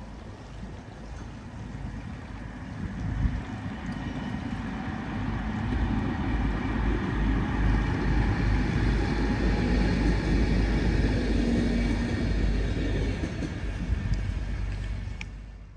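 Diesel train passing. Its rumble builds over the first few seconds, stays loud for several seconds with a faint high whine over the running noise, then begins to fade before cutting off near the end.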